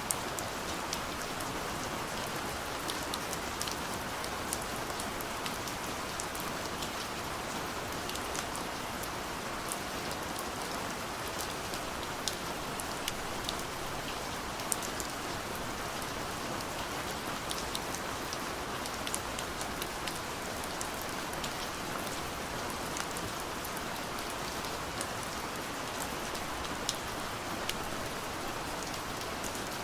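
Gentle rain on a window pane: a steady hiss of rainfall with scattered sharper ticks of single drops striking the glass.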